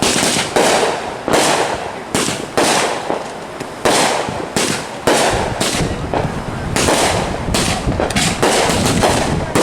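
Fireworks going off in a rapid string of sharp bangs, each trailing a brief echo, about one to two a second and coming faster near the end.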